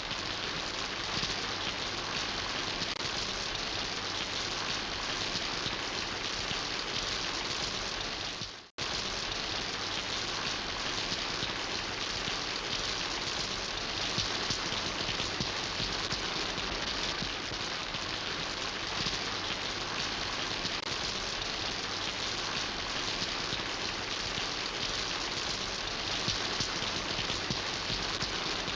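Steady rain falling, an even hiss of many drops. About nine seconds in the sound fades out for an instant and cuts straight back in.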